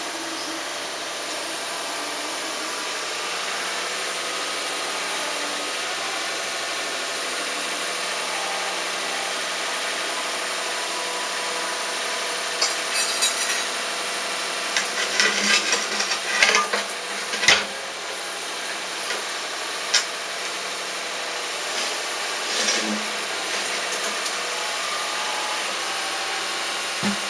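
A steady engine-like hum throughout, with a run of scraping and sharp knocks about halfway through and a few single knocks later.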